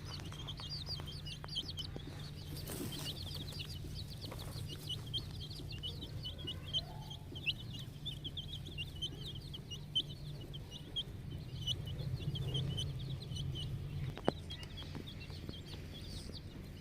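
A brood of young chicks peeping continuously, many short high cheeps overlapping, over a steady low hum. There is a single sharp click near the end.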